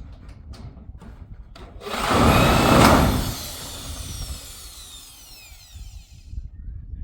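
A power tool runs in a short, loud burst about two seconds in, then winds down with a falling whine over the next few seconds, over a steady low rumble.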